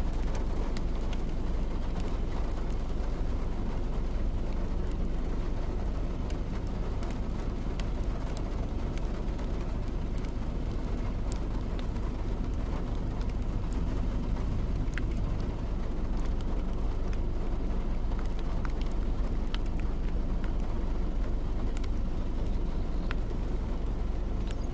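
Steady low rumble of a car driving, with scattered light ticks throughout.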